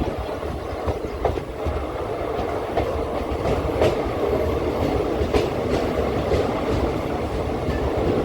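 The 22160 Mumbai CSMT Superfast Express running along the track: a steady rumble of wheels on rail with clickety-clack and a few sharp clicks as the wheels cross rail joints.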